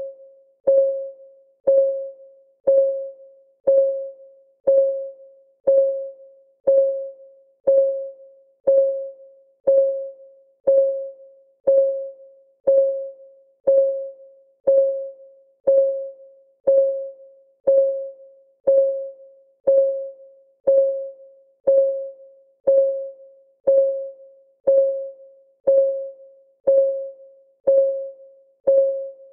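Clock ticking sound of a countdown timer: a steady tick about once a second, each a sharp click with a short ringing tone that dies away.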